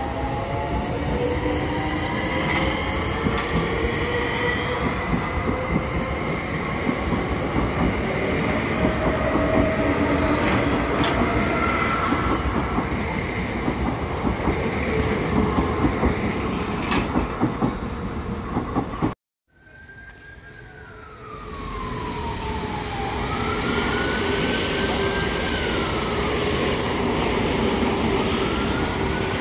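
Third-rail electric multiple-unit trains passing close by at speed: a dense rumble with occasional wheel clicks over rail joints and falling whining tones. After a cut about two-thirds in, a second train passes with a whine that rises and falls several times.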